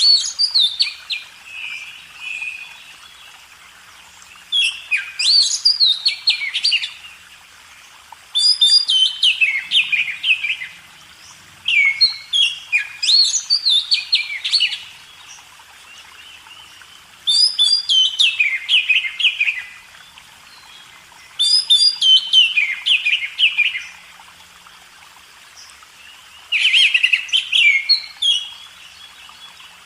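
A songbird singing in repeated phrases of about two to three seconds each, made of quick rising and falling whistled notes, about seven phrases with short pauses between them.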